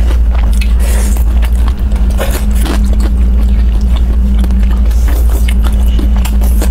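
Close-miked chewing and biting of pan-fried dumplings, with many short sharp mouth clicks and light clicks of wooden chopsticks against a sauce dish. A loud steady low hum runs underneath.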